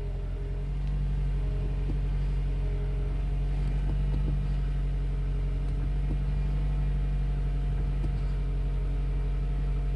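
A 2015 Toyota Camry's 2.5-litre four-cylinder engine idling steadily, heard from inside the car, getting a little louder about a second in.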